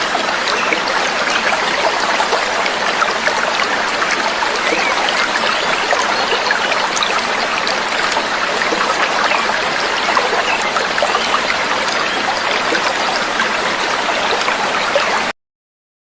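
Trickling, babbling water running steadily, then cutting off abruptly about a second before the end.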